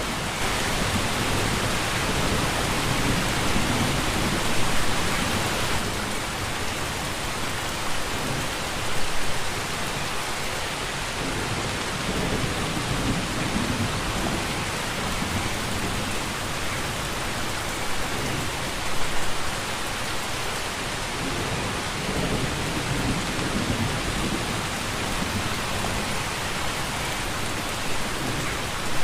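Steady rain falling, with low rumbles of thunder underneath and a few short louder moments.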